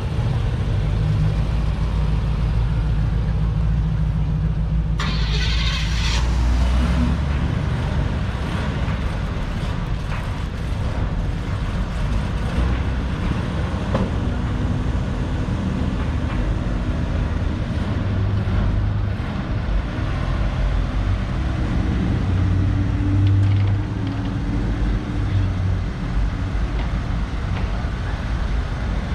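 Classic car engines running as the cars pull away and drive past one after another, a deep rumble that comes and goes as each passes. A brief hiss about five seconds in.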